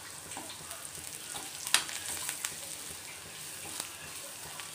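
Onions and chicken masala powder sizzling in hot oil in a kadai while a metal spatula stirs and scrapes through them, with a sharp knock of the spatula against the pan a little under two seconds in.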